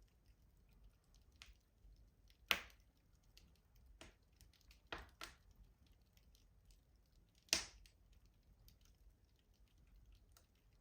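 Wood fire crackling in a rustic stove: faint small ticks throughout, with two loud sharp pops about two and a half and seven and a half seconds in and a few softer pops between them.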